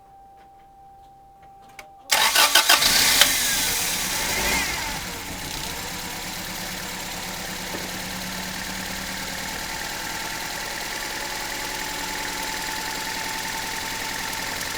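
1991 Toyota Corolla four-cylinder engine cranked by the starter about two seconds in. It catches within about a second, flares up briefly, then settles into a steady idle. The engine has a misfire on cylinder 4, which the owner suspects is a clogged fuel injector.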